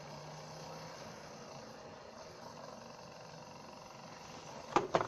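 Faint steady hum of room tone, broken by two sharp clicks in quick succession near the end.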